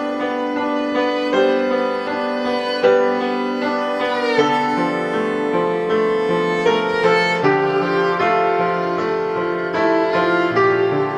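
Live band music: a bowed string melody over keyboard chords, with a note sliding down about four seconds in.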